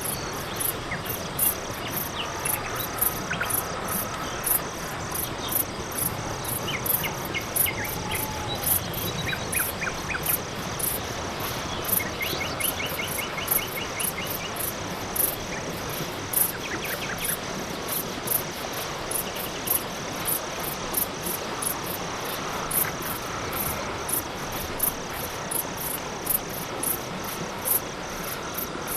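Night-time crickets chirping in a steady, quick, even rhythm over a constant high insect trill. Several times a short run of rapid clicking calls from another animal joins in.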